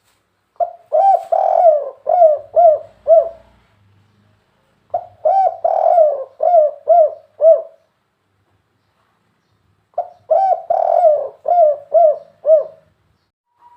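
Spotted dove (tekukur) singing its cooing song close up: three phrases, each a longer opening coo followed by about four shorter, clipped coo notes, with a few seconds' pause between phrases.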